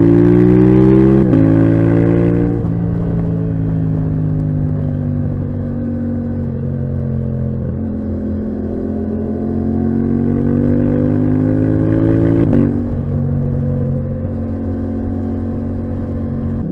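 Yamaha MT-07's 689 cc crossplane parallel-twin running through a titanium Akrapovic exhaust under acceleration. The revs climb and drop sharply at quickshifted upshifts about a second in and again about three-quarters through, and ease off and build again in between. It is loudest at the start.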